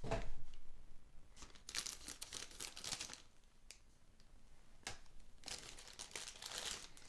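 Packaging of a new set of guitar strings being opened: two spells of crinkling and tearing, with a single sharp click about midway.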